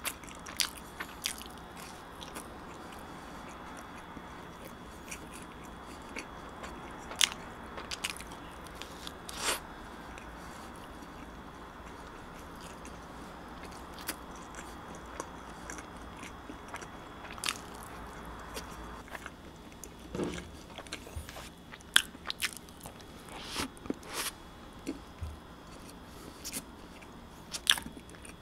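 Close-up chewing of a chocolate-coated donut, wet mouth sounds with scattered sharp clicks and short crackles.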